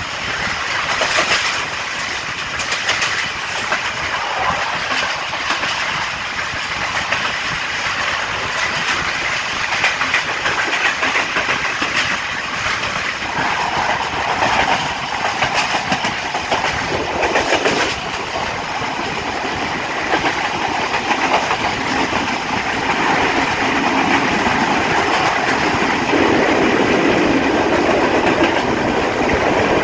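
Passenger train running at speed, heard from beside a carriage: a steady rush of wheel and rail noise with the clickety-clack of wheels over rail joints, getting somewhat louder near the end.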